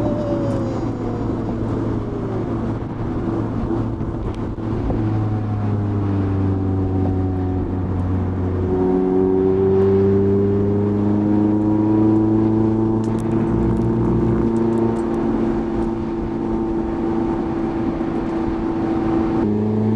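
Mazda MX-5's 1.5-litre four-cylinder engine pulling along a winding road. Its note falls off at first, jumps up suddenly about halfway through and climbs slowly, then drops and picks up again near the end as the driver works the manual gearbox.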